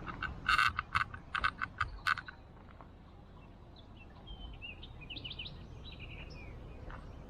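Birds calling: a quick run of about seven sharp, loud chirps in the first two seconds, then a softer song of quick rising and falling notes from about four seconds in, over steady outdoor background noise.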